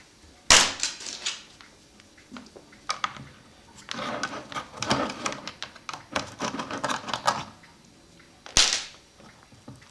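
Sharp knocks and clicks of a tool prying at the lid of a contact cement container to open it: a loud knock about half a second in, a run of quick clicking and scraping from about four to seven seconds, and another loud knock near the end.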